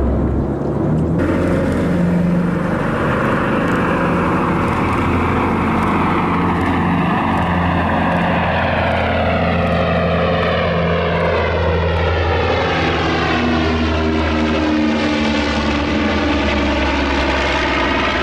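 Martin Mars flying boat's four Wright R-3350 Duplex-Cyclone radial engines and propellers droning steadily as it flies past, the tone shifting partway through as it passes.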